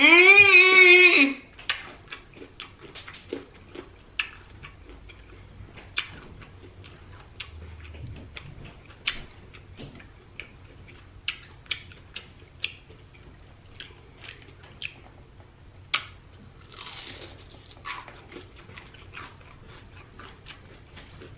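A person eating crispy deep-fried breaded seafood: a loud hummed "mmm" of enjoyment in the first second, then a long run of scattered crisp crunches, bites and mouth clicks as the fried coating is chewed.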